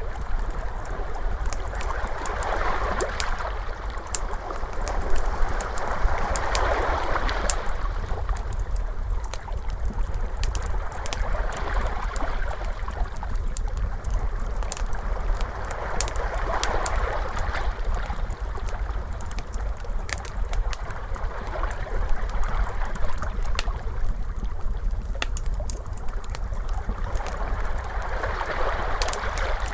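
Wood fire crackling with frequent sharp pops, mixed with ocean waves that swell and wash in every few seconds over a low rumble.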